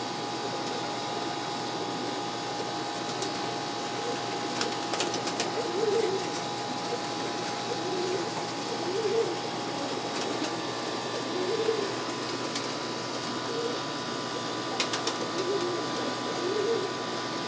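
Domestic pigeons cooing in the loft, one coo after another every couple of seconds, each a low rise and fall in pitch, with a few sharp clicks.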